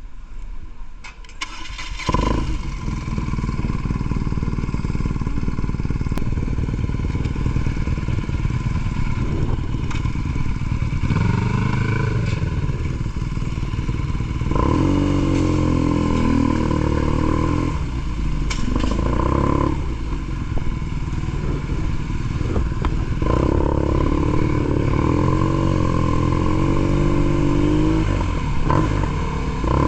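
BMW R nineT Pure's boxer twin through an aftermarket ZARD exhaust, running under way. It gets louder about two seconds in, then rises and falls in pitch several times as the bike accelerates and shifts.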